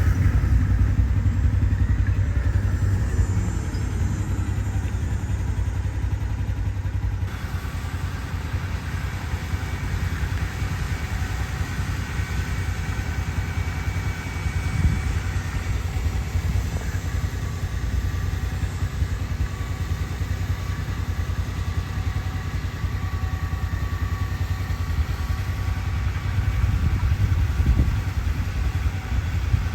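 Fendt tractor's diesel engine running steadily, with a faint steady whine above it; the sound changes character about seven seconds in.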